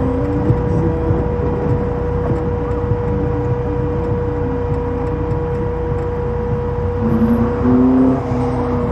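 Car engine and road noise, with music playing underneath.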